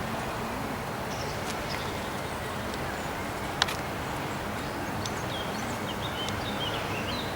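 Small birds chirping in short high notes, a few about a second in and a busier run of chirps in the last couple of seconds, over steady outdoor background noise. A single sharp click sounds about three and a half seconds in.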